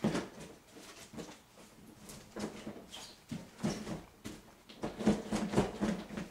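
Cardboard box and packaging being handled and opened, with irregular scraping, rustling and knocks that are loudest about five seconds in.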